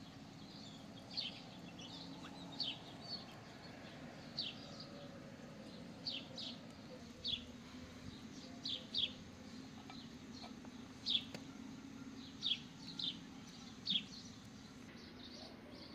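A bird chirping repeatedly: short, high, falling chirps at irregular intervals of roughly one a second, over a steady low background hum.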